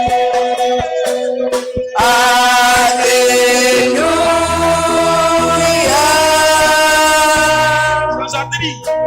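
Choir singing long, held notes with instrumental backing; a low bass line comes in about four seconds in.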